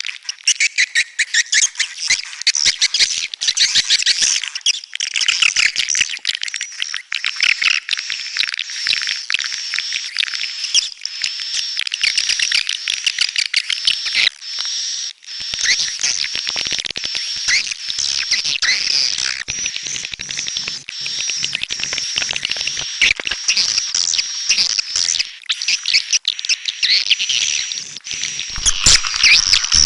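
Swiftlets twittering: a dense, continuous chatter of rapid high chirps and clicks, with a thin steady high whistle running through it.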